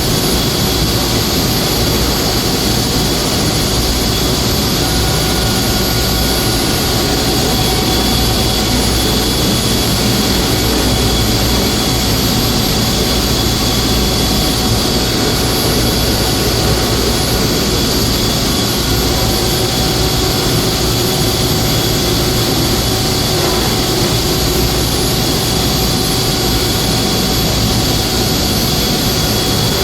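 Industrial HVAC chiller running: a loud, steady machine noise with several steady whining tones above it.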